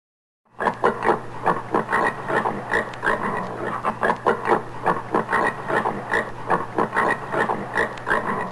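Common warthog calling in a rapid series of short, repeated calls, about three to four a second, starting about half a second in, over a steady low hum.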